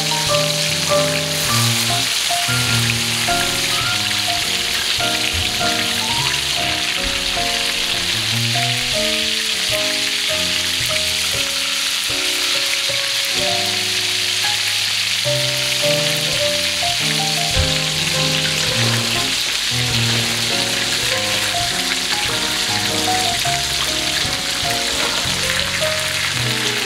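Meatballs frying in melted butter in a pan, giving a steady sizzle throughout. Light background music with a melody of short notes plays alongside.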